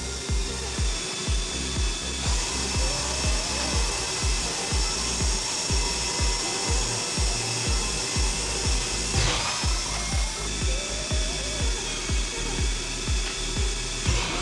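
An electric drill running under load, its whine dipping briefly about nine seconds in, as a sharpened bit drills into metal. Background music with a steady beat plays underneath.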